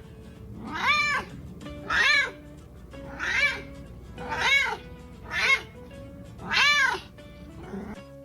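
A domestic cat meowing over and over, about once a second, each meow rising and then falling in pitch.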